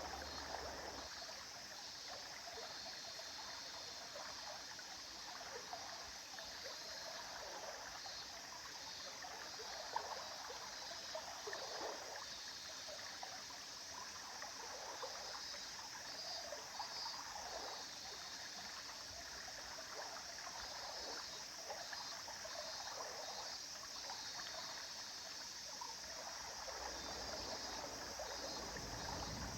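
River water flowing steadily, a continuous rush with small uneven trickles and gurgles through it.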